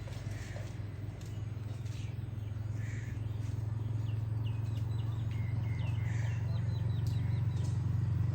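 A steady low motor hum, with a small bird chirping a quick series of short calls in the middle.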